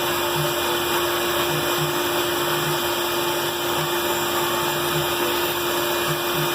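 Band saw running steadily, an even motor and blade noise with a constant hum.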